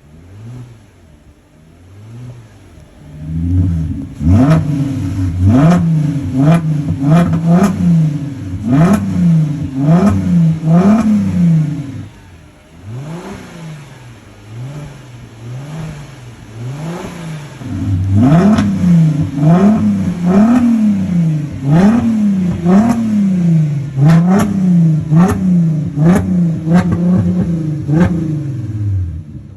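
Skoda Octavia with an aftermarket sport exhaust, idling and then revved in repeated short blips, each rising and falling in about a second, with sharp cracks from the exhaust among them. A run of softer blips comes in the middle, between louder runs.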